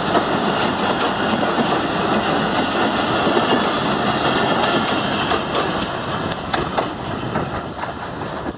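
Passenger train coaches rolling past close by, their wheels clattering over the rail joints in a run of sharp clicks over a steady rumble. The sound fades in the last few seconds as the final coach passes and the train moves away.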